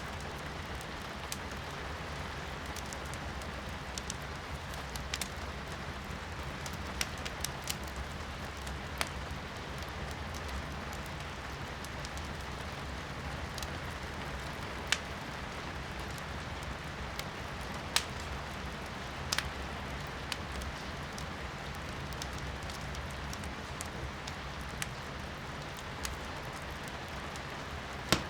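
Wood fire crackling in a fireplace, giving scattered sharp pops every second or few; the loudest come about 15 and 18 seconds in. Under it, steady rain is heard from indoors as an even hiss.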